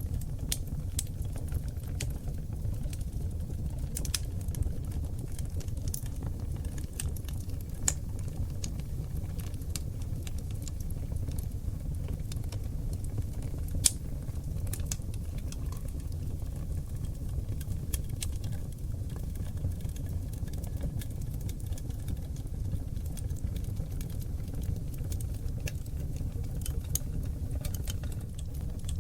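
Oak logs burning in a fireplace: a steady low rumble of flame with frequent sharp crackles and pops, the loudest pop about 14 seconds in.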